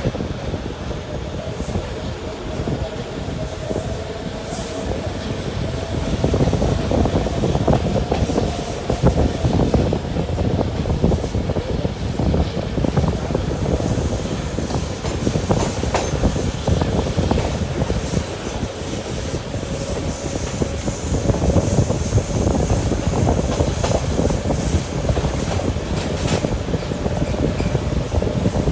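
Train running along the rails: a steady rumble with the clickety-clack of wheels over rail joints and a faint wheel squeal.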